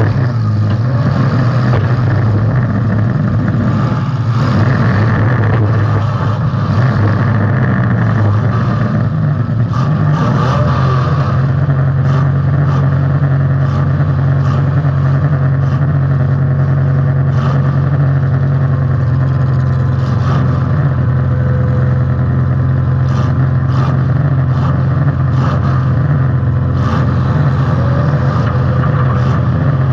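Demolition derby car's engine running loud. Its pitch wavers for the first ten seconds or so, then settles into a steady run, with short knocks now and then.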